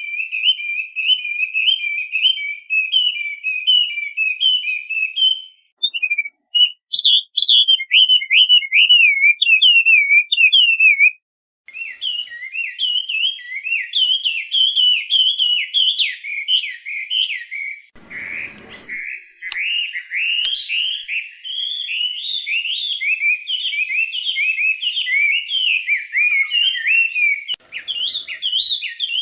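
Chinese hwamei (a laughingthrush) singing a long run of rapid, varied whistled phrases that slur up and down, breaking off briefly twice in the first half. A short low thump comes under the song about 18 seconds in.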